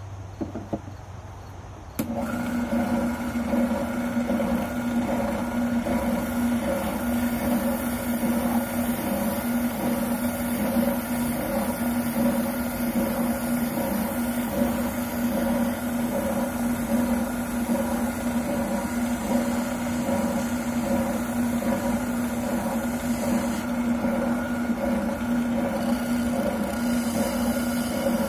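Wilton oscillating sander starting abruptly about two seconds in, then running with a steady hum as a shotgun buttplate is sanded to contour on it.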